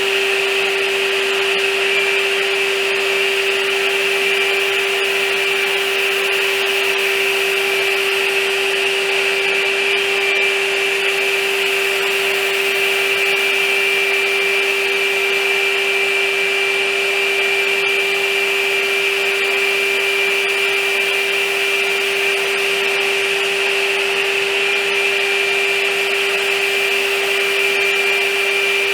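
A motor-driven shop machine running steadily, with a constant whine over an airy rush that does not change.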